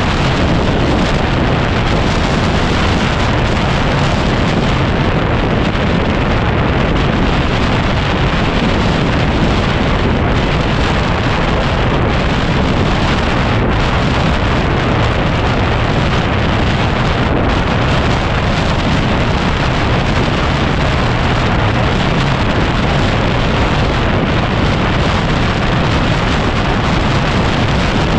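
Heavy wind noise rushing over the microphone of a 2010 Yamaha WR250R motorcycle being ridden on a dirt track, a loud, steady rush with no single sound standing out of it.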